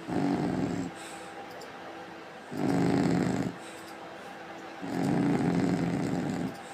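French bulldog snoring: three loud snores a second or two apart, the last one the longest.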